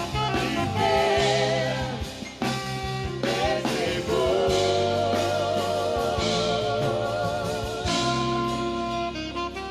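Saxophone playing a slow worship melody, with held notes that waver in a wide vibrato, over a backing track with drums.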